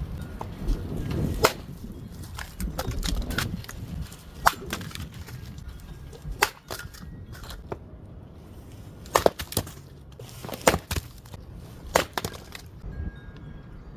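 Wood cracking and snapping: about a dozen sharp, irregular cracks, several close together around the middle, over a low rumble of wind in the first few seconds.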